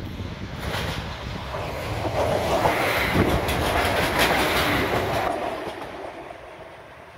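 Adelaide Metro 3000 class diesel railcar passing close by, the engine and wheels on the rails swelling to a peak with sharp wheel clicks over the track, then fading as it moves away.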